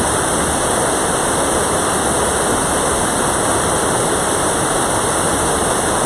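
Mountain stream rushing steadily over rocks, its flow swollen by the previous day's rain.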